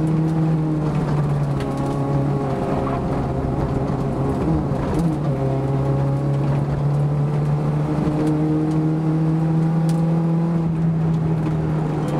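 Renault Clio II's 1.6 16-valve four-cylinder engine, heard from inside the cabin, pulling hard at steady high revs. The revs waver for a few seconds about two seconds in, then hold level again.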